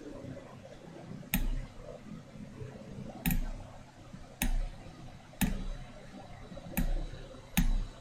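Six sharp clicks at irregular intervals, roughly a second apart, each with a short low thump, over a faint steady background hiss.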